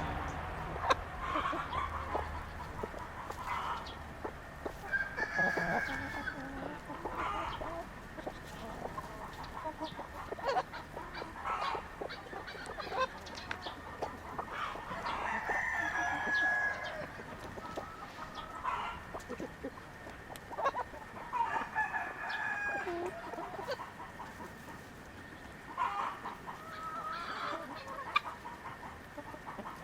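Chickens clucking and calling: many short calls throughout, with a few longer, drawn-out calls among them.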